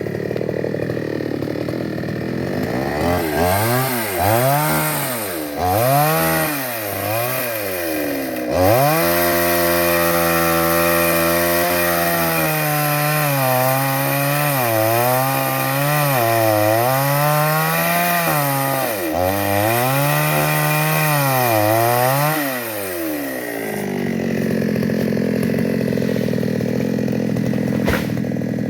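Two-stroke chainsaw revved up and down over and over, its pitch climbing to full speed and dropping back many times, with a longer stretch held at high speed. It runs lower and steadier at the start and near the end.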